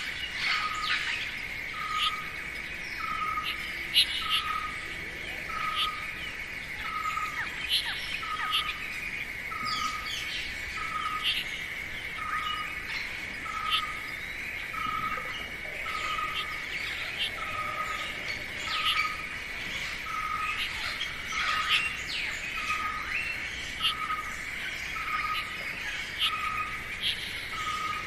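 Forest ambience of several birds chirping and calling over a steady high-pitched insect drone. Through it a short note repeats evenly, about three times every two seconds.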